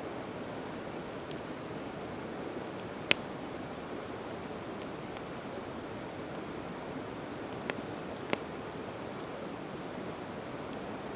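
Split evergreen wood burning in a campfire, with a few sharp pops (the loudest about three seconds in, two more near eight seconds) over a steady rush of river water. An insect chirps evenly about three times a second over a thin high buzz through most of the middle.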